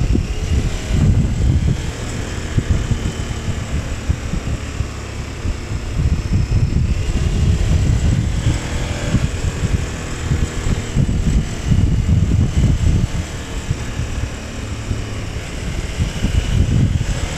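KTM 1290 Super Adventure S's V-twin engine running while the motorcycle is ridden, under heavy wind buffeting on the microphone; the engine note shifts a little about halfway through.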